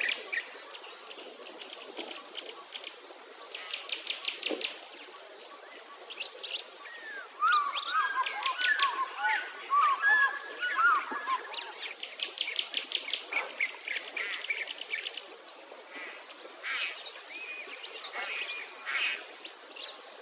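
Birds calling in trees: short repeated chirps throughout, with a louder burst of warbling song in the middle. A faint high buzz comes and goes in the background.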